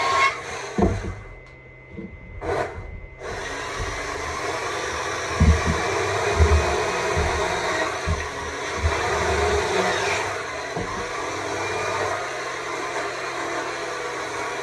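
Stihl MSA 200 C battery chainsaw running and cutting into wood: a steady electric motor and chain whir, dropping off briefly near the start and then cutting steadily on, with a few low knocks of the bar against the wood.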